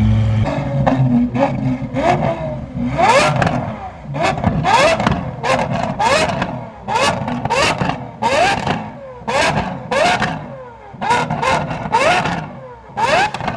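Audi R8 engine being revved hard while parked: a steady idle, then over a dozen quick throttle blips, each rising sharply in pitch and falling back.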